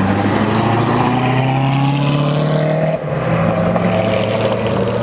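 Car engine accelerating hard away, its pitch climbing, with a gear change about three seconds in, after which it climbs again.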